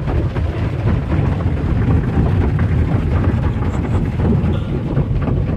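Automatic car wash machinery heard from inside the car: a steady, loud, low rumble.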